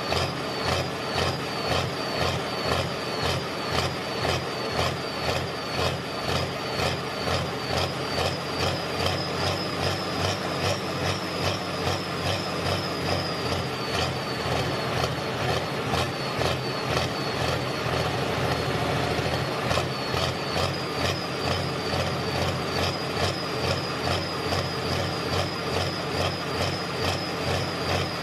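Heavy diesel engine of a John Deere pulling tractor running hard, with a high whistle over it. The sound pulses about twice a second, evens out into a steady note for a few seconds around the middle, then pulses again.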